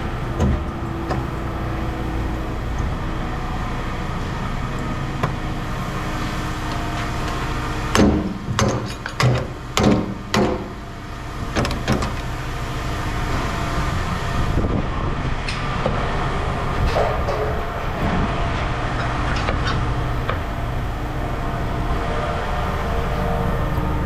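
A steady low rumble of a running vehicle engine, with a quick run of loud clanks and knocks about eight to eleven seconds in and a few fainter knocks later.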